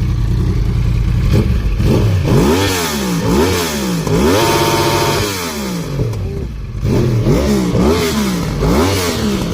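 Yamaha R1 crossplane inline-four revved while standing: about seven quick throttle blips, each rising and falling in pitch, one held high near the middle, through a loud exhaust.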